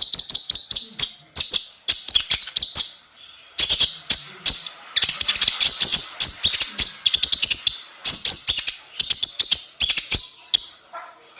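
Kolibri ninja (konin) sunbird singing: rapid, high-pitched twittering in quick runs of notes broken by short pauses, one of them about three seconds in.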